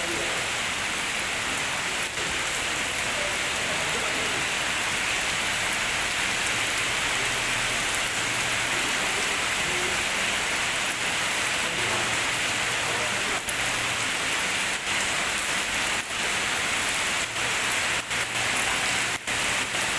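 Steady rain falling onto a pond's water surface, an even, unbroken hiss.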